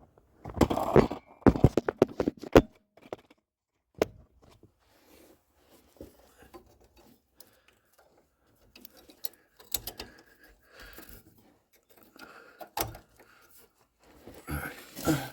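Sharp clicks and knocks of plastic trim clips and a car trim piece being handled and pressed into place, a quick cluster in the first few seconds, then scattered quieter handling sounds and a few more knocks.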